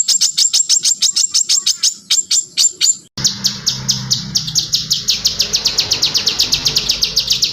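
Songbird song: rapid series of high, downward-sweeping whistled notes, about eight a second. About three seconds in it breaks off and a faster, steadier trill of similar notes follows over a background hiss.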